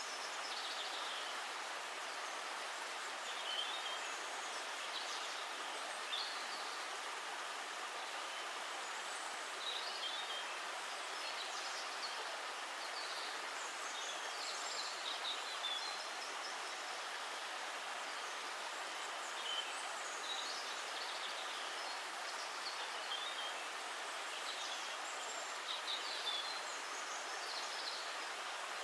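Running water making a steady rush, with birds chirping briefly now and then throughout.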